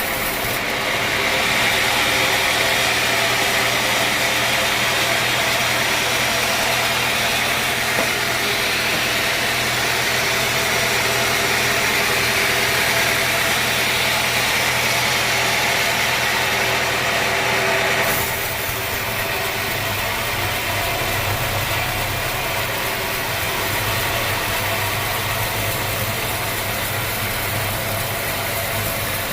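Sawmill machinery running: a steady engine hum under a loud hiss. The hiss drops away suddenly about two-thirds of the way through, leaving the hum running.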